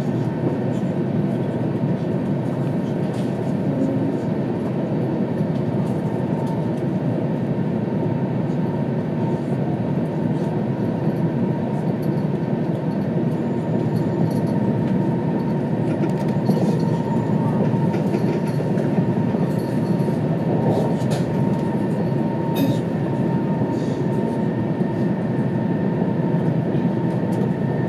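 Steady ride noise inside the passenger cabin of an E2 series Shinkansen running at high speed: a dense, even rumble with a faint steady whine above it. A few faint light clicks come in the second half.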